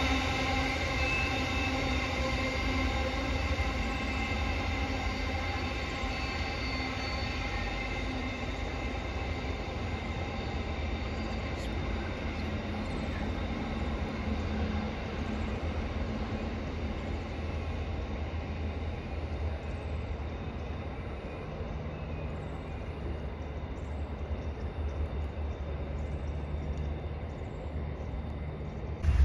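A train running on the line: a steady low rumble with several steady high-pitched tones above it, the tones fading over the first ten seconds or so while the rumble carries on.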